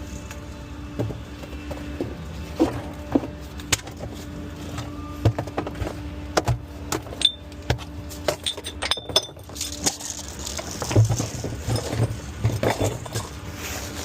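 Ford F-550 rear-loader garbage truck idling with a steady low hum, while sharp knocks and rattles of trash and a litter can being handled come and go, busiest in the second half.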